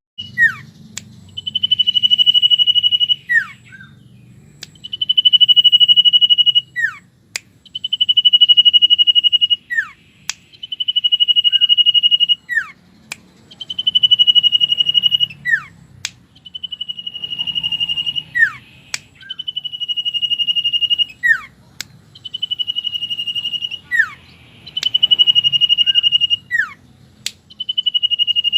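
Common iora (cipow) singing: a long, steady high whistle held about a second and a half, paired with a short downward-sweeping note, repeated every two to three seconds.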